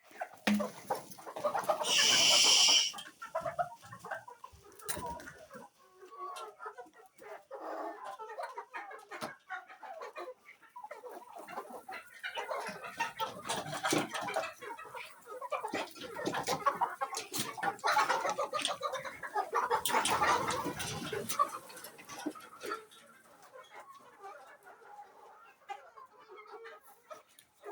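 Domestic chickens clucking on and off, with one loud, high call about two seconds in.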